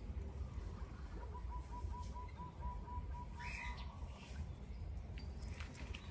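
Steady low rumble. Over it, a faint run of about a dozen quick, even pips from a bird starts about a second in, at roughly four a second, and one short chirp-like call comes near the middle.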